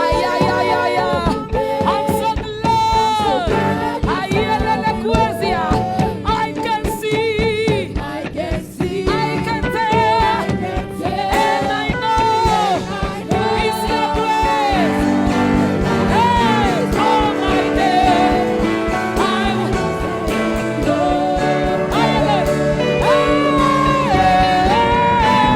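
Gospel worship music: a lead voice sings a slow, wavering melody over keyboard-and-band accompaniment, and the backing grows fuller about halfway through.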